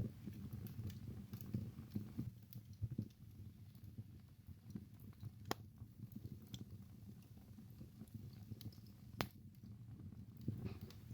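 Wood fire burning in a fireplace: a low fluttering rumble of flames with scattered small crackles, and two sharper pops about five and nine seconds in.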